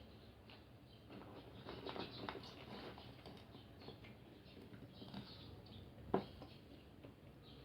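Faint close-miked eating sounds: soft chewing and small wet mouth clicks, with one sharper click about six seconds in.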